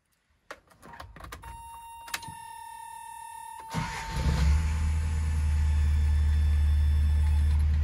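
1979 Toyota Corolla TE31's four-cylinder engine started with the key. A few key clicks come first, then a steady warning buzzer sounds for about two seconds. About four seconds in the starter turns the engine briefly and it catches at once, settling into a steady idle. The carburetor now has fuel since the broken float needle was replaced.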